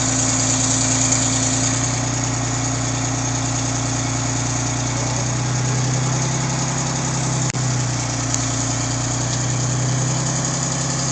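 A large engine of scrap-yard machinery running steadily. It swells a little under load twice, with a momentary break about seven and a half seconds in.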